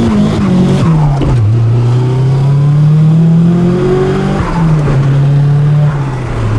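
Nissan S14 Silvia's engine under way: its note drops early on, climbs steadily for a few seconds as the car accelerates, then falls back in two steps as the revs come down.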